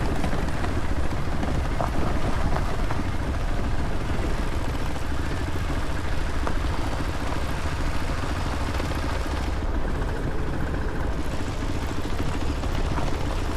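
Steady rumble of a motorcycle ride: engine running and wind buffeting the microphone, heavy in the low end.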